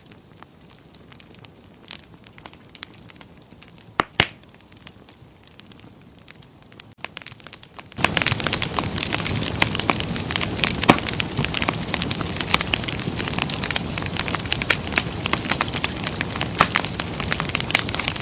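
Wood fire crackling and popping in a fireplace. It starts as sparse, quiet crackles with a couple of sharper pops, then about halfway it abruptly becomes much louder, dense crackling.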